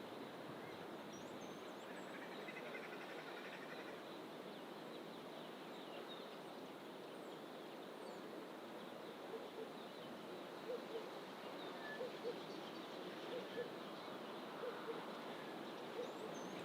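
Steady wash of distant ocean surf under bush birdsong: faint high chirps and a brief trill early on, then from about nine seconds in a bird's low call of short paired notes, repeated about once a second.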